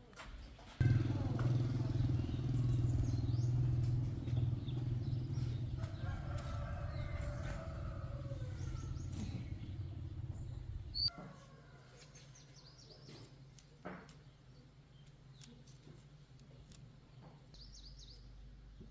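Motorcycle engine starting about a second in, running steadily for about ten seconds, then cut off. Birds chirp faintly throughout.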